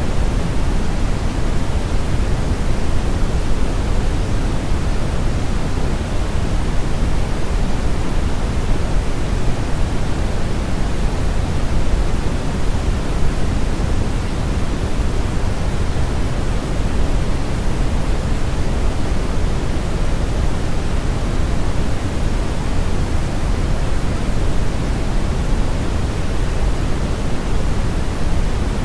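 Steady brown noise: a deep, even hiss with most of its energy in the low end and the highs rolled off, unchanging throughout.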